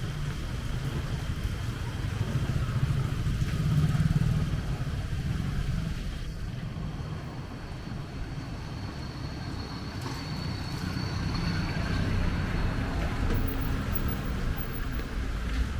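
Street traffic: motor vehicle engines running past, loudest about four seconds in.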